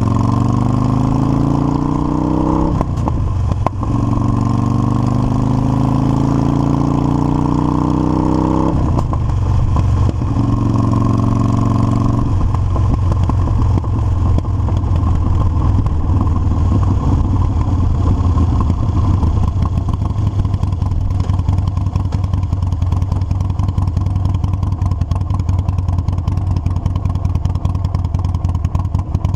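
Harley-Davidson motorcycle accelerating through the gears: the engine note rises, drops back at upshifts about 3, 9 and 12 seconds in, then holds steady at cruising speed.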